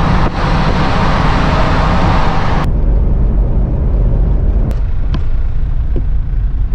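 Vehicle driving at road speed, heard with a constant low rumble of engine and tyres and a loud rushing hiss that cuts off abruptly under three seconds in, leaving the rumble alone.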